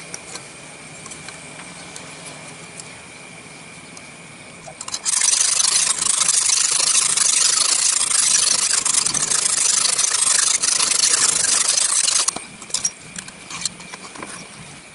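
Sharpening stone of a Lansky-type knife-sharpening jig being worked quickly along a kitchen knife's edge, giving an even scraping hiss that begins about five seconds in and lasts about seven seconds. Before it there are only faint light ticks of handling.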